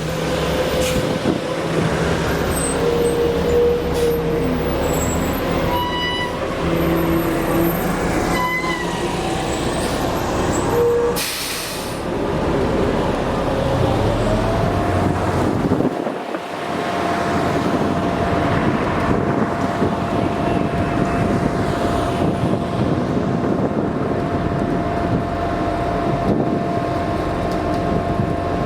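Heavy vehicle and street traffic noise, with truck engines running. A short hiss comes about 11 seconds in, and a steady whine sets in about 16 seconds in.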